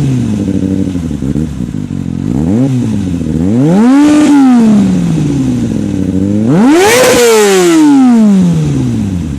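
2008 Kawasaki ZX-6R's inline-four engine revved through a shortened Suzuki GSX-R slip-on exhaust. It gives three throttle blips from idle: a short one, a longer one held briefly, and the highest one near the end, each dropping back to idle.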